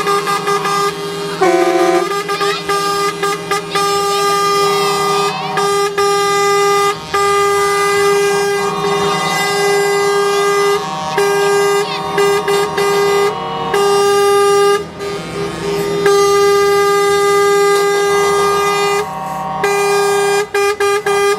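Truck air horns sounding almost without pause, several horns held at once in overlapping chords, broken only by short gaps.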